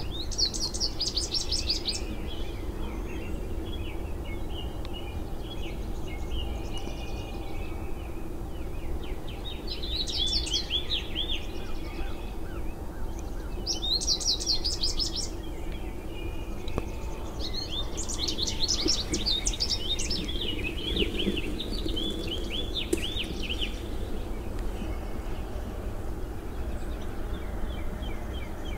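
Songbirds singing in several short bursts of quick repeated high notes, over a steady low background rumble.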